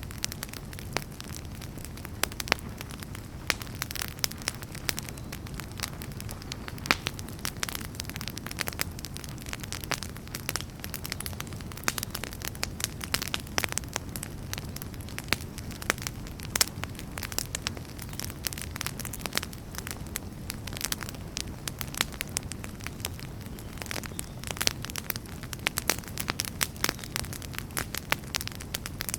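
Wood fire burning in a fireplace: a steady low rumble of flames with many sharp, irregular crackles and pops of burning logs.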